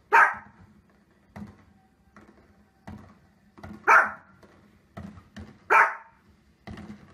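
Small dog barking: three loud, sharp barks, at the start, about four seconds in and near six seconds, with fainter short sounds between them.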